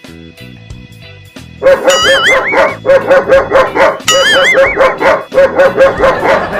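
Recorded dog barking, the fake bark played to startle people, coming in loud about a second and a half in as rapid repeated barks over background music.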